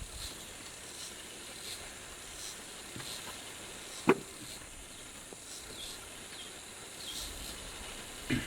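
Outdoor rural ambience: a steady high hiss, with one short sharp knock about four seconds in and a few faint chirps after it.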